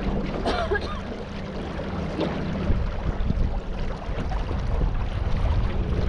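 Boat under way on the river: a steady low hum from the boat, with wind noise on the microphone.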